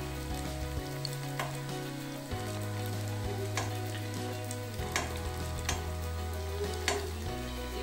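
Potato-stuffed bread rolls deep-frying in hot oil in a kadhai: a steady sizzle with a few short sharp clicks.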